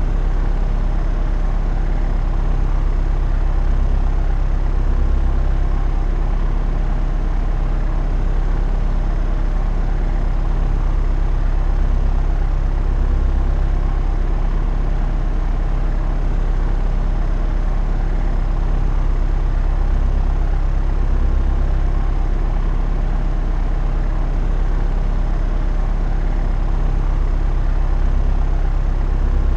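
Propeller aircraft in flight: its engine and propeller make a steady low drone with an even hum. The drone swells gently about every eight seconds.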